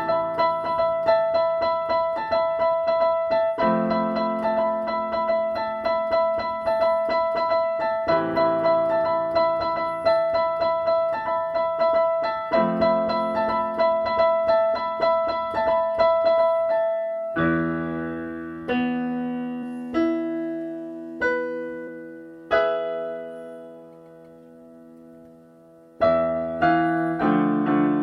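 Solo piano playing a pop song arrangement: fast, even repeated notes over a held melody note. A little past halfway the playing changes to spaced chords left to ring and die away, growing softer until almost silent, and then fast playing starts again near the end.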